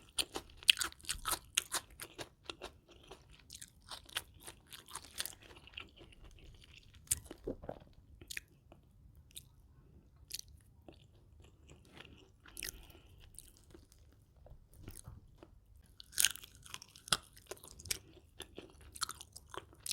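Close-miked eating: crisp crunchy bites and wet chewing in irregular clusters, busiest at the start and again about three-quarters of the way through.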